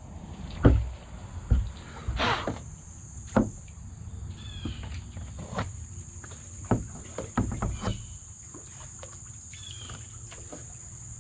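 Steady high-pitched chorus of crickets and other insects, with scattered knocks and a brushing scrape about two seconds in.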